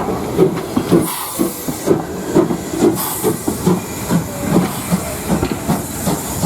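Steam locomotive working, with steam hissing and a pulsing beat about twice a second, and louder bursts of hiss about a second in and again about three seconds in.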